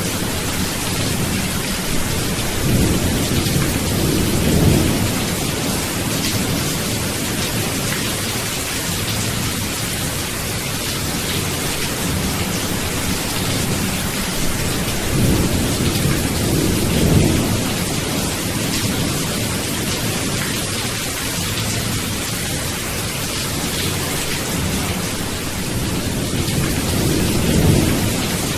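Steady heavy rain, with three low rolls of thunder rumbling up and fading: about three seconds in, around the middle, and near the end.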